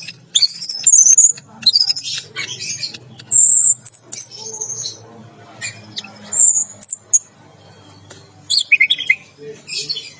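Orange-headed thrush singing loud, varied phrases of clear whistles, chirps and sweeping notes, with short pauses between the bursts.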